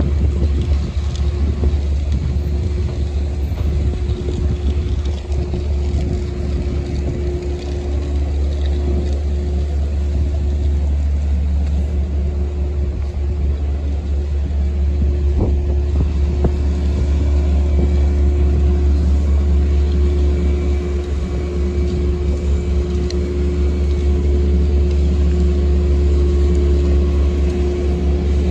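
Steady low rumble of a running road vehicle, with a constant droning tone over it, growing a little louder in the second half.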